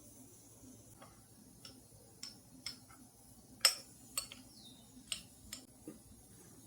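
About nine light, sharp clicks and taps at irregular intervals, the loudest a little past the middle: kitchenware or tableware being handled and set down.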